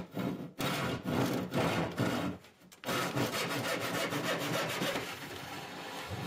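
A saw cutting into a wooden desk: a run of short, rasping strokes with brief pauses, then about three seconds of steadier cutting.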